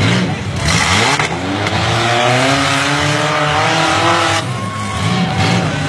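Demolition-derby car engines revving hard as the cars spin in wet mud: one engine note climbs steadily for about four seconds and then drops back, over the rushing of spinning tyres and spraying mud.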